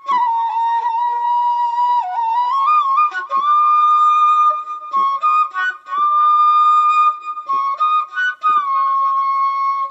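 Background music: a solo flute melody of long held notes with slides and bends between them.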